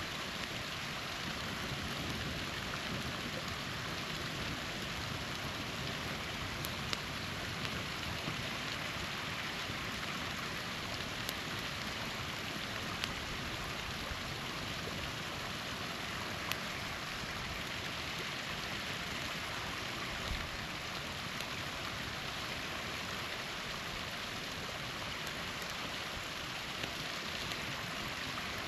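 Small waterfall rushing steadily, with a handful of sharp pops and crackles from a campfire.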